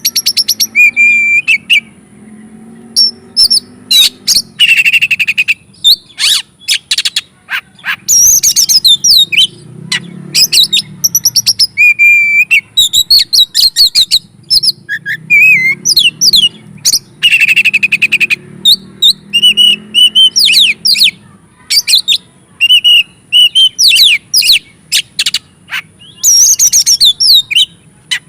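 Oriental magpie-robin (kacer) in full, loud song: a varied, unbroken string of clear whistles, sharp chirps, rising and falling sweeps and fast trills, separated by short pauses.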